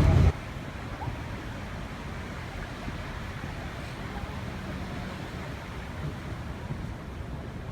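A louder sound cuts off suddenly right at the start, leaving a steady, low outdoor background noise with no distinct events.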